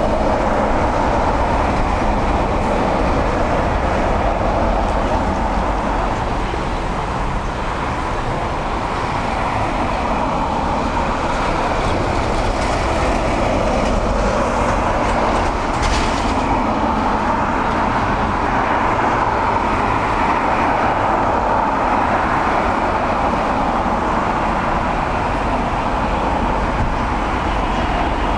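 Jet engines of a Boeing 777-300 airliner on approach and landing, a steady loud rumble with no breaks.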